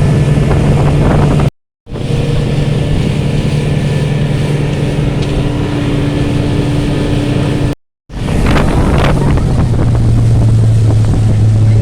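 Motorboat engine running steadily, with wind buffeting the microphone. The sound drops out completely twice for a moment, and after the second break, about eight seconds in, the engine hum is lower in pitch.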